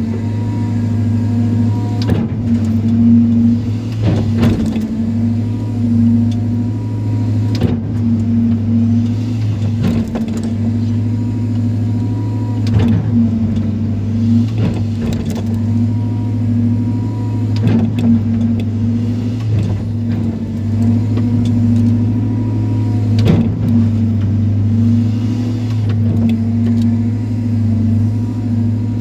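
Excavator's diesel engine running steadily under load during land clearing, with short knocks every second or few.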